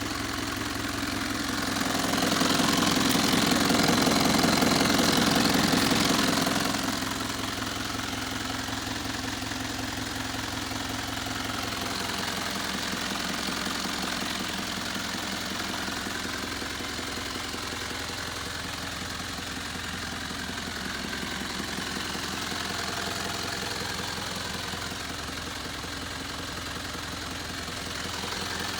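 Nissan Civilian bus's diesel engine idling with a steady drone. About two seconds in it runs louder for roughly five seconds, then settles back to idle.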